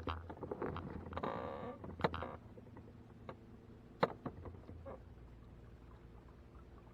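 Knocks, clicks and rustling of gear being handled in a plastic fishing kayak, with a short rasping sound about a second in and a sharp knock near 4 s, then quieter.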